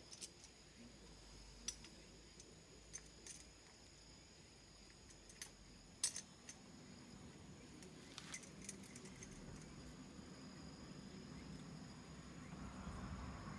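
A faint, steady high-pitched insect trill, with scattered light clicks and clinks, about eight in all, at irregular intervals.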